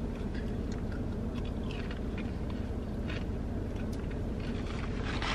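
Close-up chewing of food, faint and irregular, over a steady low hum.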